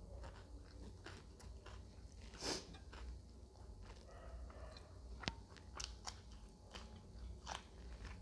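Close-miked eating sounds: a person chewing and crunching on mouthfuls of food, with scattered wet clicks and one louder crunch about two and a half seconds in.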